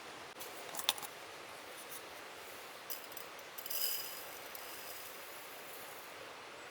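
Light clinks and taps of small metal or glass camp coffee gear being handled: a sharp ringing clink about a second in and a short cluster of clatter near the middle, over a steady hiss of a flowing stream.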